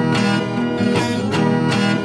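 Instrumental music: a strummed acoustic guitar with a steady beat.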